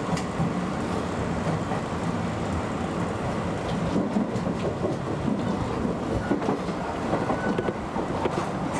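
Keio Inokashira Line electric express train running on the line: a steady rumble of wheels on the rails with occasional faint clicks.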